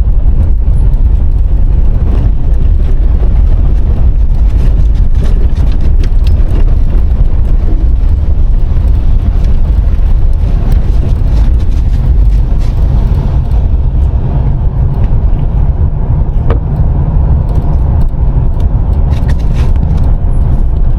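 A car being driven: a steady, loud low rumble of engine and road noise, with a few faint clicks.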